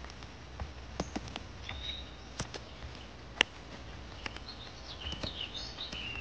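Small birds chirping in short high bursts, among scattered sharp clicks and taps; the loudest is a single click a little past the middle.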